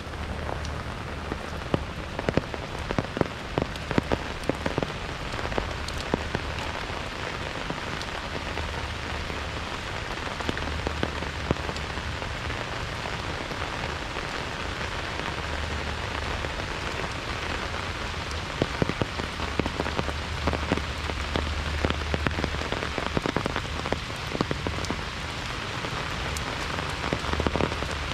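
Heavy rain falling steadily, with many sharp individual drop impacts through the hiss.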